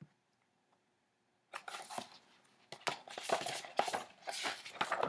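Paper rustling and crinkling as the pages of a picture book are handled, starting about a second and a half in after near silence, in a run of short uneven strokes.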